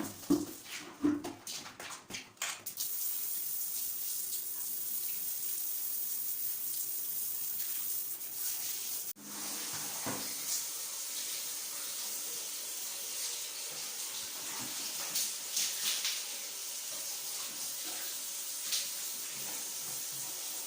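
Water running steadily, as from a tap in a bathroom being cleaned, after a few knocks and clicks in the first couple of seconds. It breaks off for an instant about nine seconds in.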